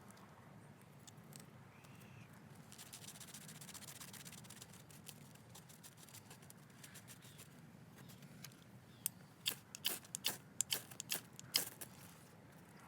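Quiet outdoor background, with a quick run of about a dozen sharp clicks or snaps about nine seconds in, lasting a few seconds.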